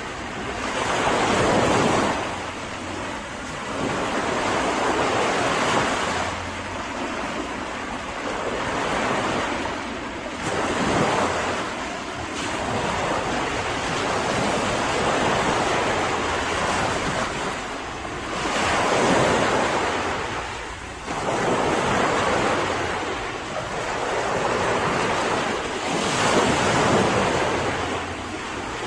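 Mediterranean sea waves breaking and washing up a beach, the surf swelling and falling back every few seconds.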